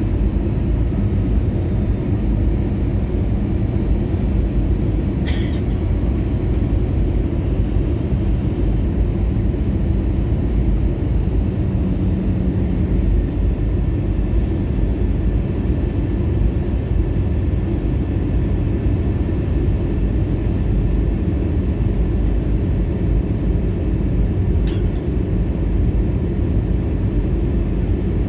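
Steady low rumble inside the cabin of an Airbus A320-214 in flight: airflow and its CFM56 engines, heard from a forward window seat. Two faint ticks, one about five seconds in and one near the end.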